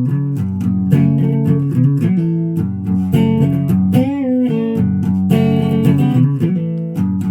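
Guitar music, plucked notes and chords played continuously, with a note bent in pitch about four seconds in.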